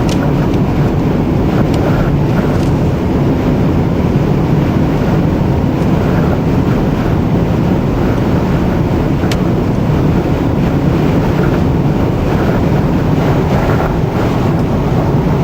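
Strong wind blowing hard across the microphone: a steady, loud rush of noise, heaviest in the low end, with a couple of faint clicks.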